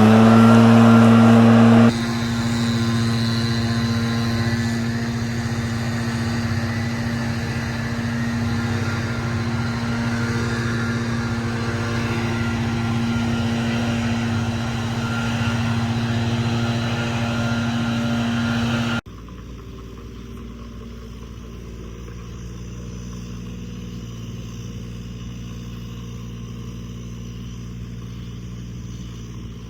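A heavy machine's engine running steadily at high revs, loudest for the first couple of seconds. About 19 seconds in it cuts off abruptly and gives way to a quieter, lower steady engine drone.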